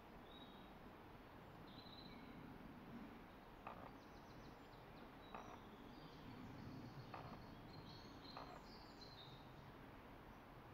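Faint, high, short chirps of small birds, scattered through, with a few soft clicks.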